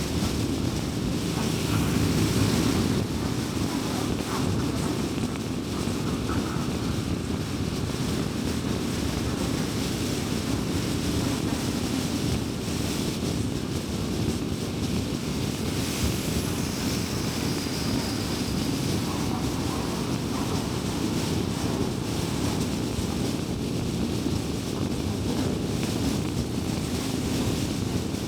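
Steady road noise of a car driving on a highway: a continuous low rumble of tyres and engine with wind rush. Brief swells of hiss about two seconds in and again about sixteen seconds in.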